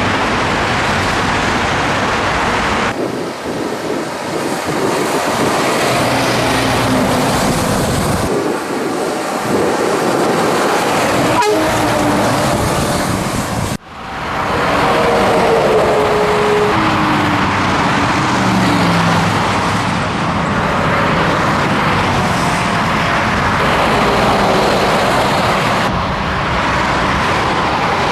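Scania truck on the move: steady engine and road noise with an engine note that shifts and falls in steps. The sound drops out sharply about fourteen seconds in, then picks up again.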